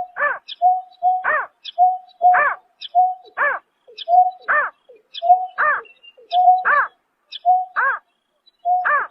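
Greater painted-snipe calling: a steady repeating series, each phrase a short flat hoot followed by a louder arched call that rises and falls in pitch, about one phrase a second.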